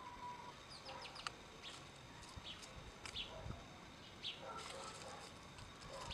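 Faint bird calls: short high chirps repeated on and off, some of them clucking like hens.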